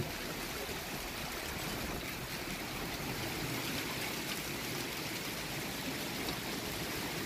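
Steady hiss of a downpour of rain mixed with small hailstones.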